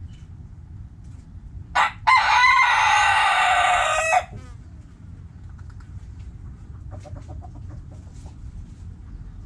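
A rooster crows once: a short first note about two seconds in, then a long held crow that drops in pitch at its end. A few soft hen clucks follow later, over a steady low background rumble.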